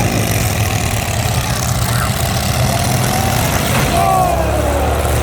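Derby trucks' engines running steadily, with voices in the background.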